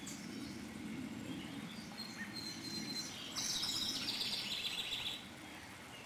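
A songbird sings a fast, buzzy high trill for nearly two seconds, a little past the middle, after a thin whistled note, over the steady low rush of stream water.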